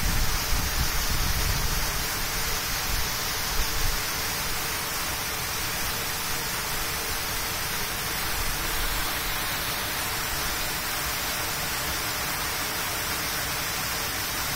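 Waterfall rushing as a steady, even noise, with some low buffeting in the first few seconds.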